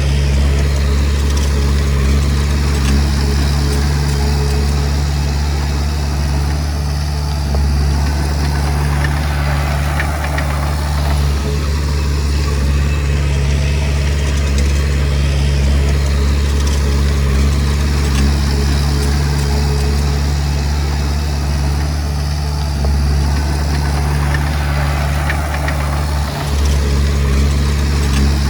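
Diesel engine of a Komatsu D20P bulldozer running steadily with a deep, even hum, with only a brief dip near the end.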